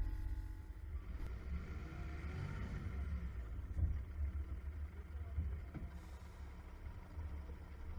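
A road vehicle passing by, its noise swelling and fading about two to three seconds in, over a steady low rumble.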